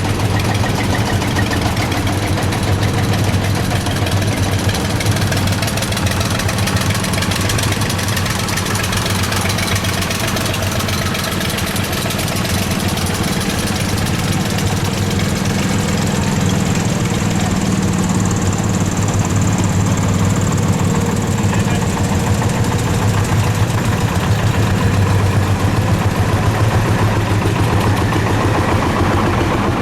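Engines of veteran vehicles running steadily at low speed, a loud continuous low-pitched engine note with no clear change.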